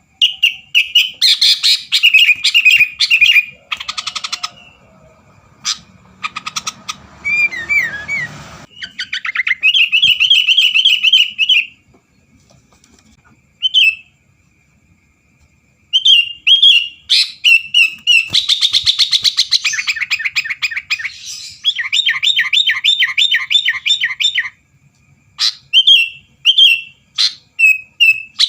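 Sooty-headed bulbul (kutilang) singing loudly: bursts of bright chirping phrases and fast rattling trills, broken by a few seconds' pause about halfway through.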